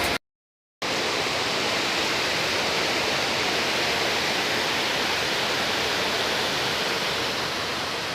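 Steady, even rush of a waterfall's falling water, coming in after a brief dropout to silence right at the start.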